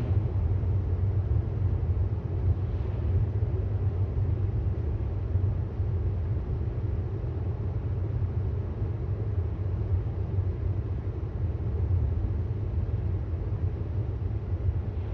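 Steady road and tyre rumble from a 2018 Tesla Model S 75D driving along; as an electric car it has no engine note, only a low, even drone.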